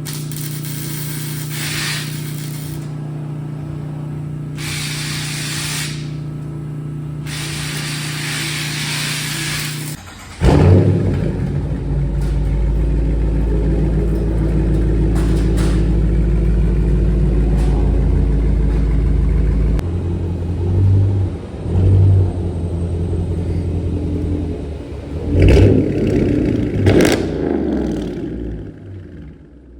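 Steady low hum broken by three bursts of hissing, then a car's V8 engine, the Dodge Charger R/T's 5.7 L Hemi, starts about a third of the way in with a loud rise and runs with a deep rumble, blipped twice and then revved twice near the end before the sound fades.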